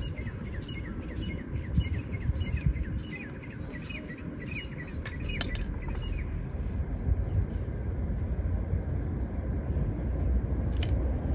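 A bird calling in a quick series of short falling chirps, about three a second, which stops about five seconds in, over a steady low rumble.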